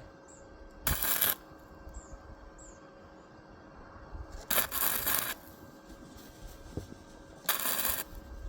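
Electric arc welding in three short crackling bursts, each under a second long, like tack welds joining a metal pot-stand frame.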